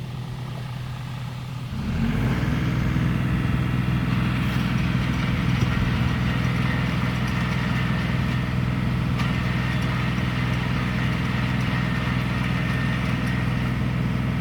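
RK37 tractor engine running at a low idle, then about two seconds in it comes up to a higher speed and runs steadily and louder.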